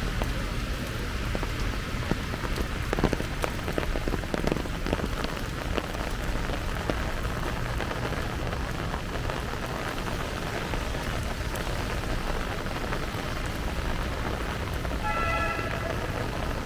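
Heavy rain pouring down, a steady hiss with sharper spattering drop hits a few seconds in. Near the end, a short pitched tone sounds for about a second.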